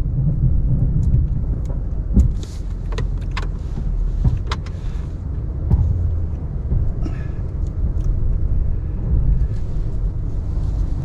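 Ram 1500 Classic pickup running steadily while pushing snow with its plow, a low engine rumble with scattered short clicks and knocks.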